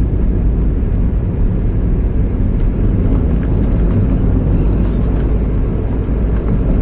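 Motor vehicle driving at speed in a high gear: a steady engine and road rumble.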